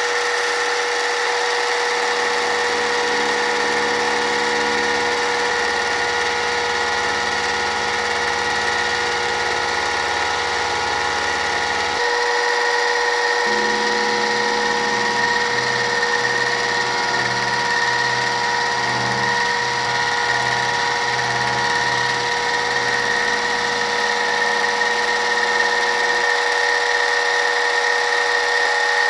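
A metalworking machine tool running steadily with a constant whine; its lower sound changes abruptly about twelve seconds in.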